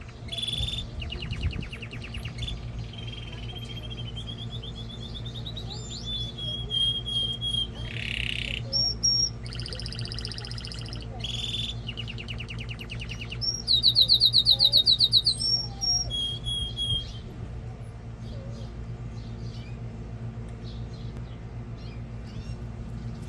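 A male canary singing a run of rapid trills and rolling phrases, the loudest a very fast trill about two-thirds of the way through. The song stops a few seconds before the end, leaving a steady low hum.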